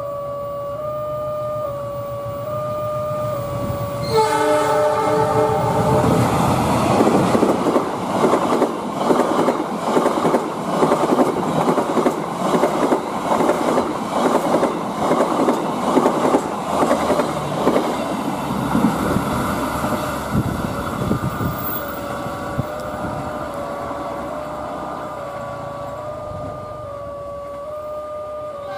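A steady, slightly wavering two-pitch tone, then about four seconds in a diesel locomotive's horn sounds for about two seconds as the train approaches. The passenger coaches then pass close by with a rapid, rhythmic clickety-clack of wheels over the rail joints, which fades as the train moves away. The wavering tone returns near the end.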